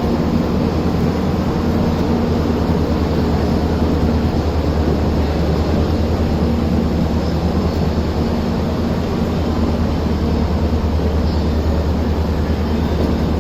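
Steady, even rumble and hum of an Indian Railways express train, with no breaks or sudden events.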